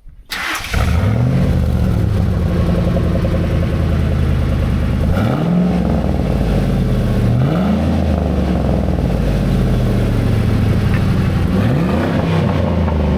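Ford F-150 engine through a newly fitted custom side-exit exhaust, starting up about half a second in and then idling loudly, with three blips of the throttle that rise and fall in pitch.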